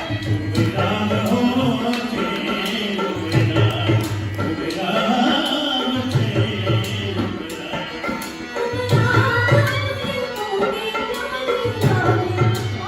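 Live Rajasthani folk music: a hand drum playing a steady rhythm under singing.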